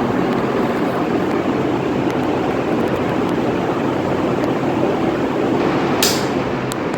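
Quiet Pak ceiling fan running, a steady whoosh of moving air with a low hum. A brief high hiss about six seconds in.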